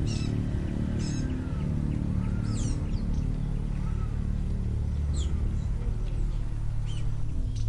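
Short high, falling bird chirps every second or two over a steady low drone of background music.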